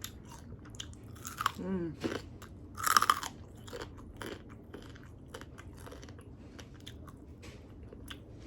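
Close-up eating sounds: crispy air-fried chicken wings bitten and chewed, with crunchy bites, the loudest about three seconds in, then quieter crunching and chewing.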